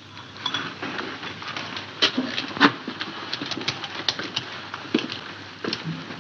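A run of irregular knocks, taps and rustling, with a brief low muffled hum near the end.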